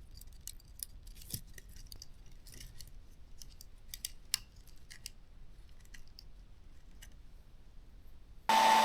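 Light, scattered clicks and ticks of small drone parts being handled while the main board is worked free of its housing. Near the end a hair dryer switches on and blows steadily with a held whine, heating the factory glue.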